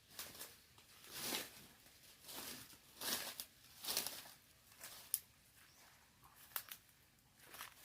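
Rustling and crackling of dry leaves and vegetation in a series of separate bursts about a second apart, with a few sharp snaps or clicks.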